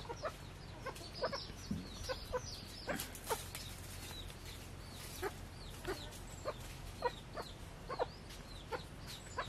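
Faint, short bird calls, each a quick falling note, repeated irregularly about twice a second, with a brief pause near the middle.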